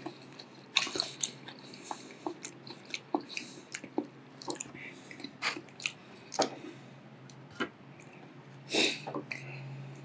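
Close-miked chewing of a mouthful of food, with irregular wet mouth smacks and clicks and a louder one near the end.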